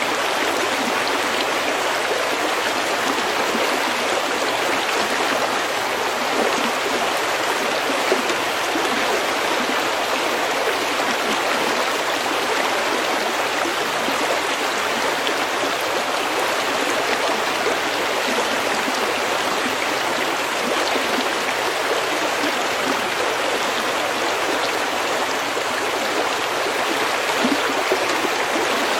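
Meltwater stream flowing over pebbles, a steady, even babble of running water with no let-up.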